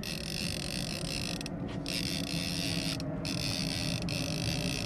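Fishing reel creaking and clicking steadily under load as a hooked catfish pulls against the line.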